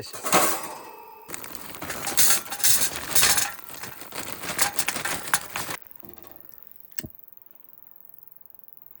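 Charcoal briquettes tipped into a barbecue grill: a rattling, clinking cascade of many small hard knocks that lasts a few seconds and stops suddenly, followed by a single sharp click.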